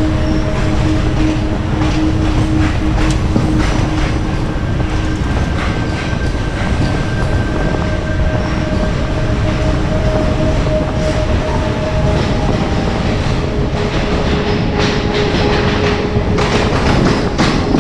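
Indian Railways express train coaches running through a rock tunnel, heard from the open carriage door: a loud steady rumble of wheels on rail with clacks over the rail joints and faint steady whining tones. The sound brightens near the end as the coach nears the tunnel mouth.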